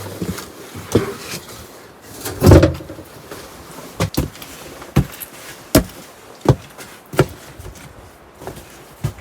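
A series of sharp knocks, about one a second, with a heavier thud about two and a half seconds in.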